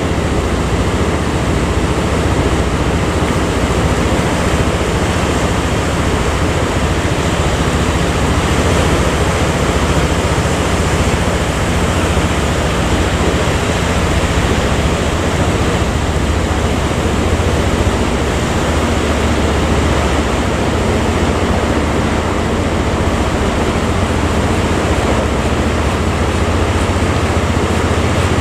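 Steady rush of sea waves and wind, with a low engine hum running under it.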